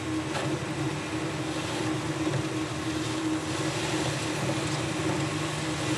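Metal lathe running while a finishing tool turns down a silver steel bar: a steady hum over an even hiss.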